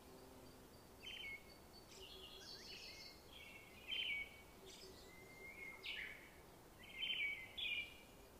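Small birds chirping: a series of short, high chirps, about one or two a second, over faint background noise.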